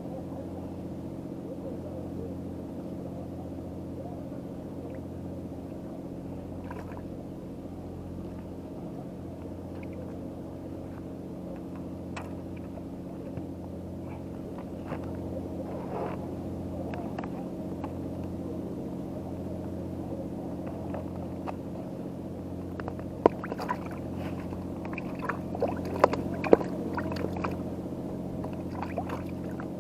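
A boat engine running steadily, a constant low drone. Several sharp clicks and knocks come over it in the last few seconds.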